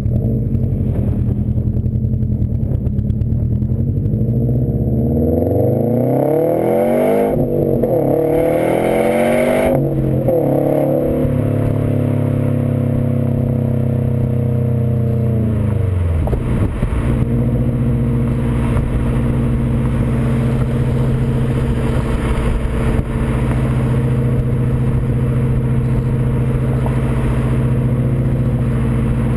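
2015 Subaru WRX STI's turbocharged 2.5-litre flat-four engine sounding through a Nameless aftermarket exhaust: running steadily, then revved up twice, held at higher revs for several seconds, then dropping back to a steady idle about halfway through.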